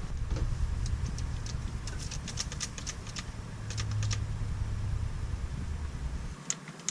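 Handling noise: a run of light clicks and taps over a low rumble that cuts off abruptly near the end.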